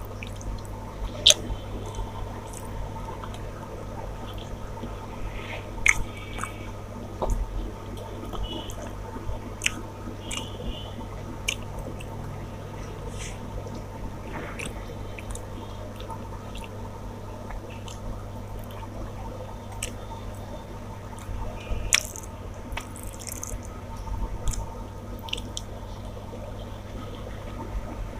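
A person eating a meal of rice and fish curry up close: wet chewing, squishing and lip-smacking sounds, with short sharp clicks and smacks scattered throughout. A steady low hum runs underneath.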